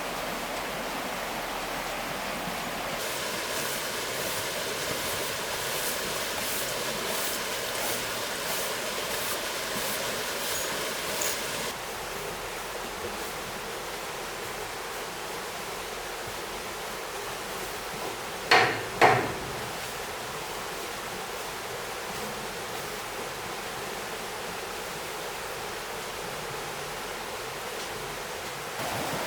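Flowing stream water throughout. For several seconds early on, even knocks repeat about one and a half times a second, and past the middle come two sharp, loud knocks in quick succession.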